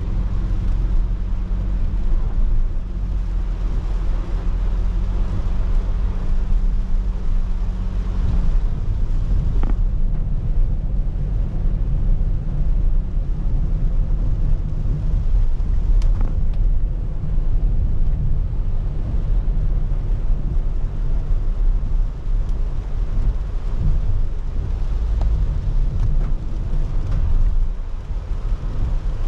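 Car driving in the rain: a steady low road and engine rumble under a soft hiss of wet tyres and rain, with a steady hum that drops away about eight seconds in and a few sharp ticks.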